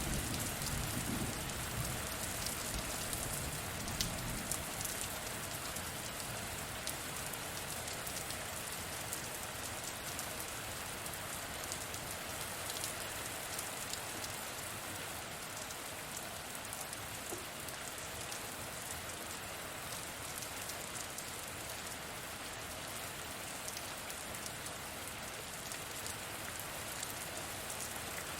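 Steady heavy rain, an even hiss with fine drop ticks. A low rumble of distant thunder fades out in the first few seconds.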